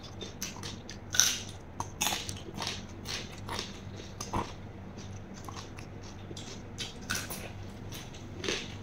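Close-up chewing of a mouthful of raw minced beef with crisp raw vegetables: wet smacking and crunchy clicks at an irregular pace, over a faint steady low hum.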